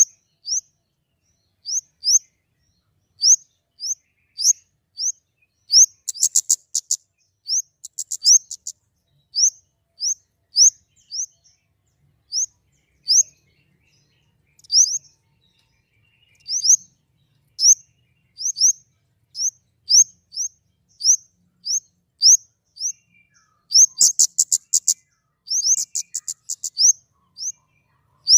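Flowerpecker (kemade) calling: short, sharp, high-pitched rising chip notes about twice a second. Twice the notes break into quick runs of rapid ticks.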